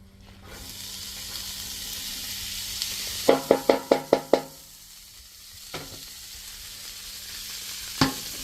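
Food sizzling on the hot steel top of a Blackstone flat-top griddle, with a quick run of about seven ringing metal clacks in the middle and two single clacks later.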